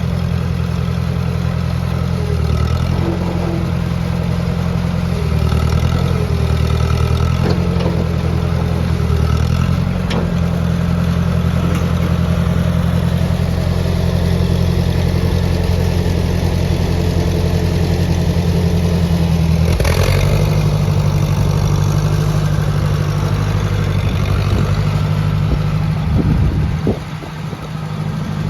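Ford 601 Workmaster tractor's four-cylinder gas engine running, its speed rising and falling several times in the first ten seconds, then settling to a different steady speed about twenty seconds in, with a brief drop near the end.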